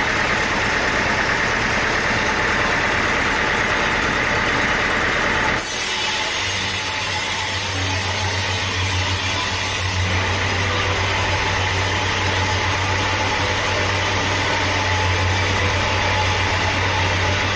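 A motor running steadily. About five and a half seconds in, the sound changes abruptly and a strong low hum sets in.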